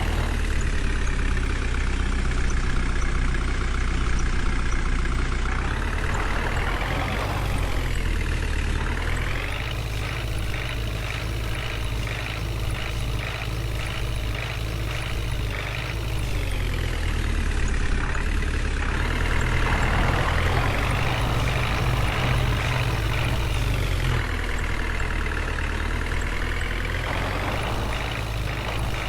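Tractor engine running while driving, its pitch rising and falling several times as the revs change.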